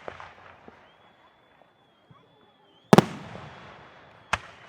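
Aerial fireworks shells bursting: a loud double bang about three seconds in and another sharp bang near the end, each followed by a long fading rumble. A thin, steady, high whistle is held from about one second in until the last bang.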